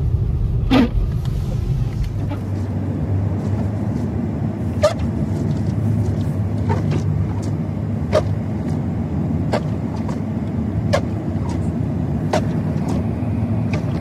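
Steady engine and road noise of a car driving on snowy roads, heard from inside the cabin, with a sharp click about every second and a half.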